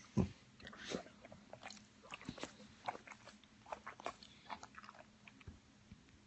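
A dog chewing something hard, with irregular crunching clicks. The loudest crunch comes just after the start, and the chewing dies away about five seconds in.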